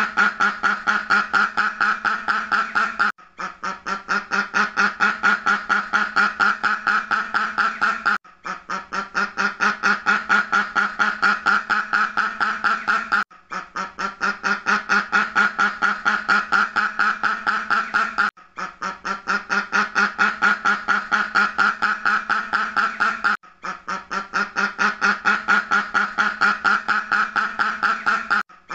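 Duck quacking in a fast, even run of about six quacks a second. The run is a short recording of about five seconds played on a loop: it breaks off briefly about every five seconds, and each repeat starts with quieter quacks that quickly build back up.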